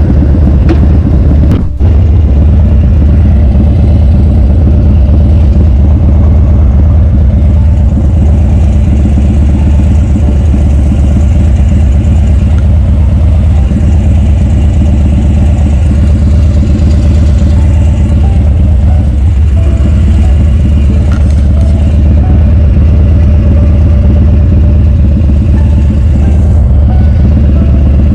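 A running vehicle with road noise: a loud, steady low drone that dips briefly about two seconds in.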